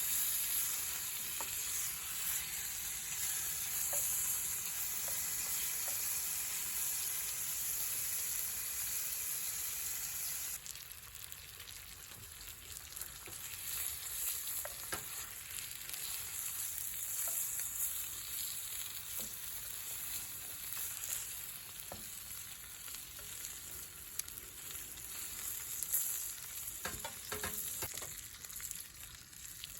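Food sizzling and frying in a pan, a steady hiss. About ten seconds in it cuts to a quieter sizzle with scattered light clicks and taps.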